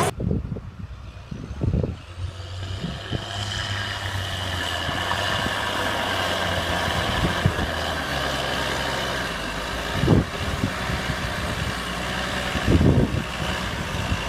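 A motor vehicle's engine running steadily, with a few short knocks: one about two seconds in, one around ten seconds and a cluster near thirteen seconds.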